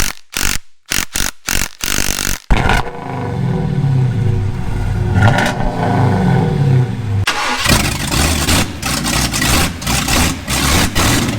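A run of sharp knocks, then a KTM 150 SX's two-stroke single-cylinder engine catches about two and a half seconds in and revs up and down repeatedly. From about seven seconds in it runs noisier and harsher.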